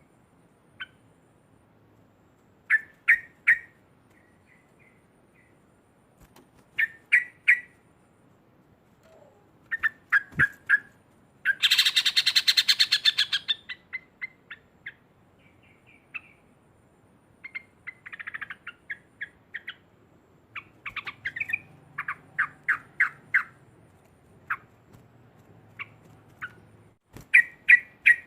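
Yellow-vented bulbul calling: short groups of quick clipped notes repeated every few seconds, with a loud, fast chattering run (the 'ngekek') lasting about two seconds roughly twelve seconds in.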